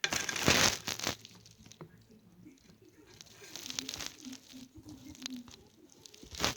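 Crinkling and rustling of plastic packaging being handled, loudest in the first second and again about four seconds in, with scattered small clicks.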